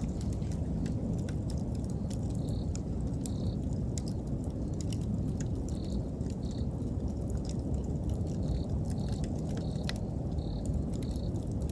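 Wood campfire crackling, with frequent sharp pops and snaps over a steady low background. An autumn insect chirps in short high notes now and then, more often near the end.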